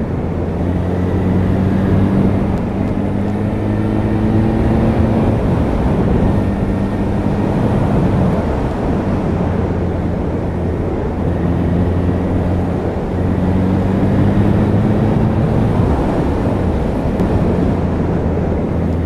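Motorcycle engine running at road speed, recorded on board, its note rising and falling gently a few times through the bends.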